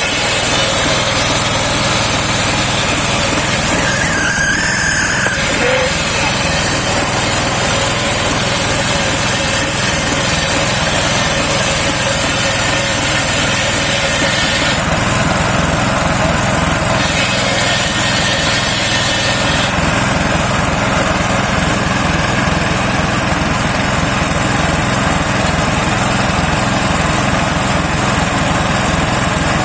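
Engine of a homemade circular sawmill running steadily.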